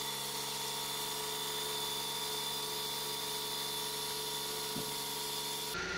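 Suzuki Mehran / Maruti 800's carbureted F8B three-cylinder engine idling steadily at about 1150 rpm, hot at operating temperature. The sound changes abruptly near the end.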